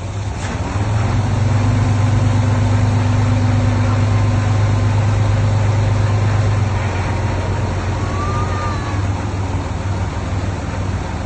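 Heavy diesel earthmoving machinery running: a steady engine hum that rises about a second in, holds loud and strong, then eases off a little past halfway.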